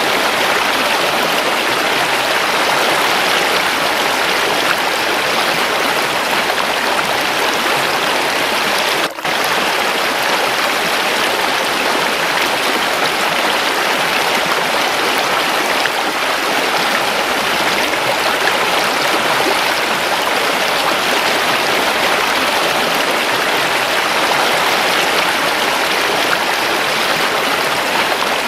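Waterfall running water, a steady, even flow with no pauses except one momentary dip about nine seconds in.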